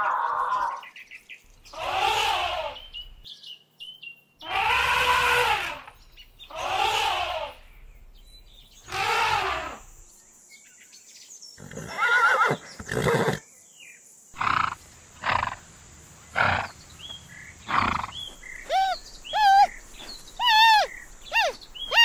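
Horse calls: several loud, drawn-out neighs in the first half, then a denser call and a few short, separate calls. Birds chirp repeatedly in the last few seconds.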